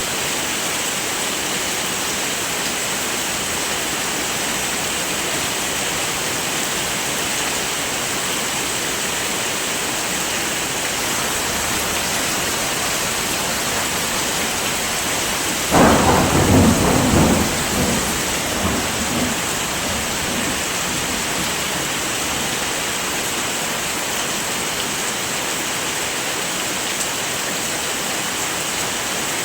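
Steady heavy rain falling, with a sudden clap of thunder about halfway through that rumbles and fades over a few seconds.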